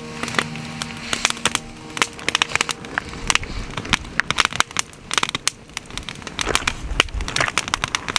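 Wood bonfire crackling, with many irregular sharp pops and snaps.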